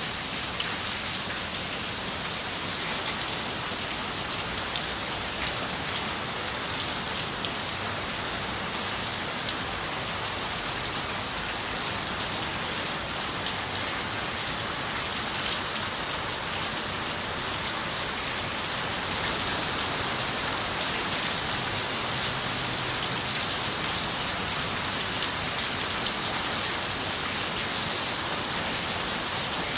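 Steady rain falling on a window glass: an even hiss with occasional sharper drop taps. It grows slightly louder and brighter about two-thirds of the way through.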